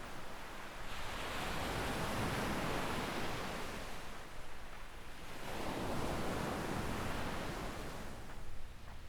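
Small waves breaking and washing up a sandy beach, the surf swelling twice, about four seconds apart.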